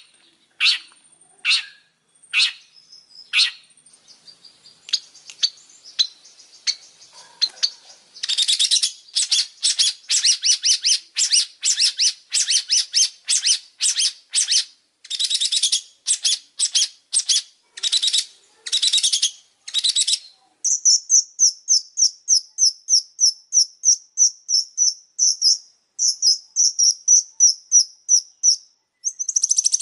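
Long-tailed shrike singing: a few scattered harsh, scratchy notes, then from about 8 s a steady run of harsh notes about two a second. About 20 s in, this changes to a fast series of thinner, higher notes.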